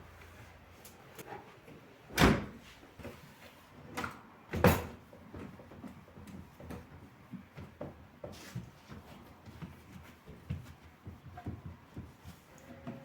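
Kitchen cupboard doors knocking shut, loudly twice about two and a half seconds apart, amid the light clatter and clicks of items being handled.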